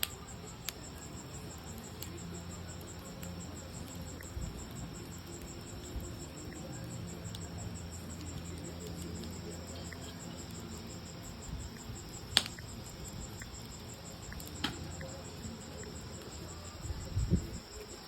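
Crickets chirping in a steady, fast-pulsing trill, with a few sharp pops from a wood fire crackling (the loudest about twelve seconds in) and some low thumps near the end.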